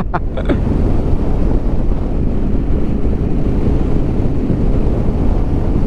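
Riding noise of a Yamaha Ténéré 700 motorcycle on the move: wind rushing over the microphone as a steady low rumble, with engine and road noise beneath it.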